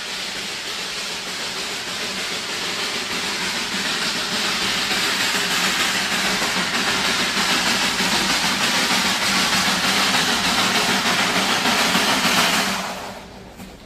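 Darjeeling Himalayan Railway toy train making a steady hissing rush that grows louder for about twelve seconds, then falls away sharply about a second before the end.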